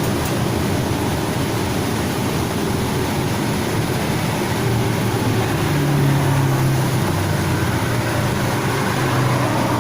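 Steady low engine-like rumble with a hum that swells about six seconds in.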